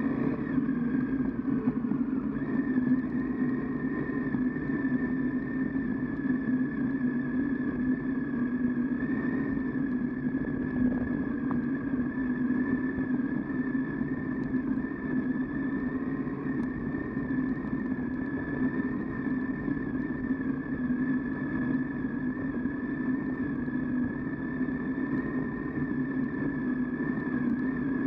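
Triumph Tiger 800XC's three-cylinder engine running at a steady, even pitch with no revving, heard from on the bike as it rides a dirt track.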